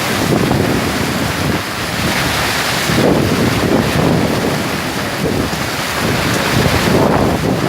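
Heavy rain pouring down with wind buffeting the microphone: a loud, dense hiss whose lower rumble swells and dips unevenly.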